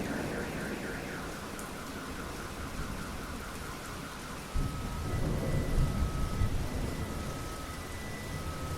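Thunderstorm: steady rain with thunder rumbling, a rumble dying away at first and a new roll of thunder breaking out suddenly about halfway through.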